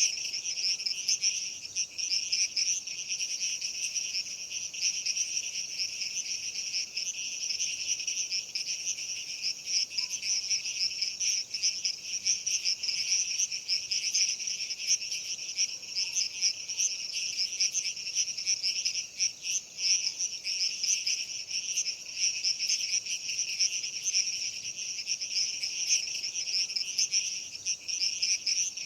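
A dense, continuous chorus of night insects chirping, many rapid high-pitched pulses overlapping into a steady, shimmering sound.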